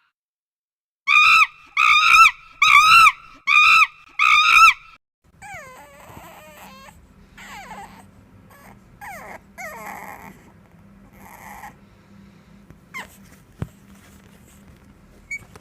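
An animal calling: five loud, short calls in a row, each rising and falling in pitch, followed by fainter, varied calls and squeaks over a low steady hum.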